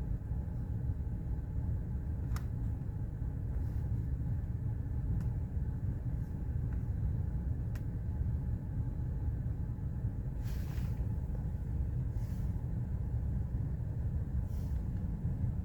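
Steady low rumble of an Audi A4 B8 car running, with a few faint clicks.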